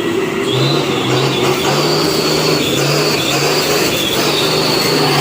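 Remote-control model truck driving, its motor running with a whine that steps up and down in pitch as the throttle changes.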